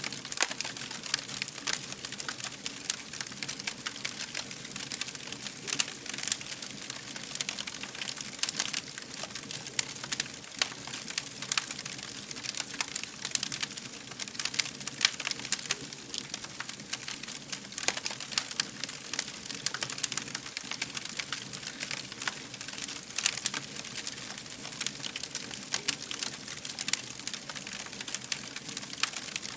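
Fire crackling steadily, with a dense run of small sharp pops and snaps over a soft hiss.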